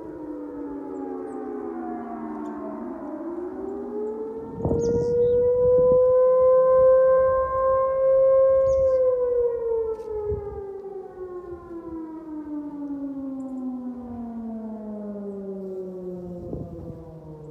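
Several outdoor warning sirens sounding at once from different distances, their wails overlapping. One winds up a few seconds in, holds a steady loud tone, then winds slowly down to the end, while fainter ones fall in pitch around it.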